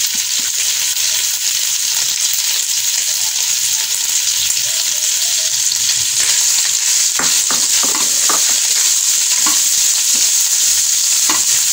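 Oil sizzling in a kadai as shredded boiled chicken fries in it with garlic, the chicken tipped in at the start. From about six seconds in, a spatula stirs it, adding short scraping strokes over the steady sizzle.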